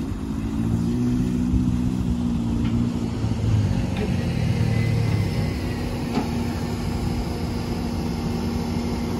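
Heavy diesel machinery engine running under load, its pitch rising and falling for the first five seconds or so, then settling into a steady hum, with a few faint knocks.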